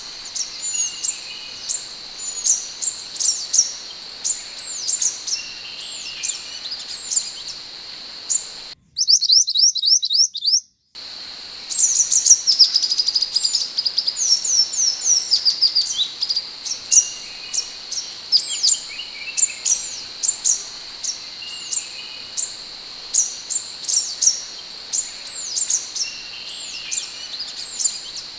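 Scarlet minivet (mantenan, sepah hutan) singing a long run of short, high, curved whistled chirps. A dense burst of rapid sweeping notes comes about nine seconds in, and another fast run at about twelve to sixteen seconds, over a steady high-pitched hum.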